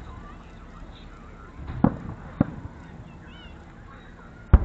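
Distant aerial fireworks shells bursting: three bangs, about two seconds in, half a second later and a louder one near the end, each followed by a low rumbling tail.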